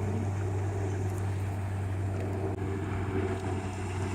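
Motorboat engine running at low speed with a steady low hum as the boat comes in to dock, with some wind noise.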